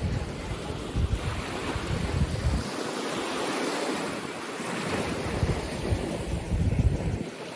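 Ocean surf washing on a beach, with wind buffeting the microphone in gusts that ease off briefly in the middle and again near the end.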